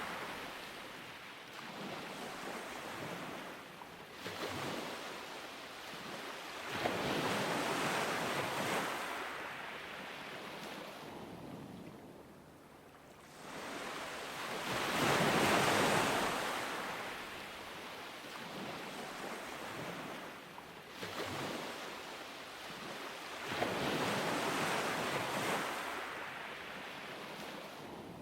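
Ocean waves breaking and washing up on a beach, swelling and fading every few seconds, the loudest wave about halfway through. Wind rushes lightly on the microphone underneath.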